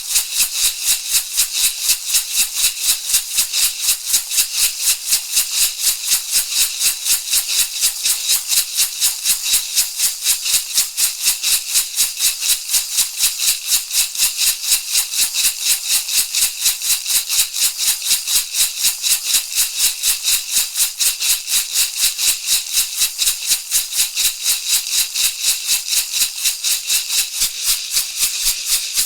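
Shamanic rattle shaken in a fast, even, unbroken rhythm of about four to five shakes a second, a bright, hissy swish with each stroke.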